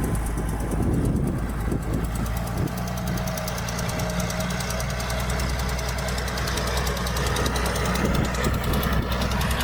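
Heavy diesel engine of earthmoving equipment running steadily under load, with a fast, even clatter over its low drone.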